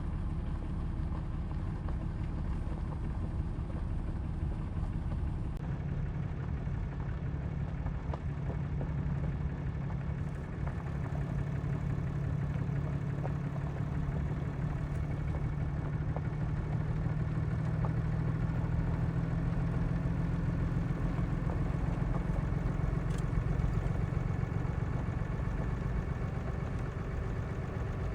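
A truck's engine running steadily, heard from inside the cab as a low hum that grows slightly louder partway through.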